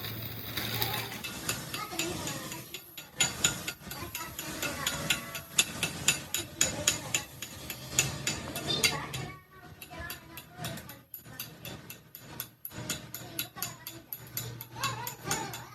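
Rapid, irregular metallic clicking of a ratcheting hand tool being worked during truck axle repair, several clicks a second and loudest in the first half.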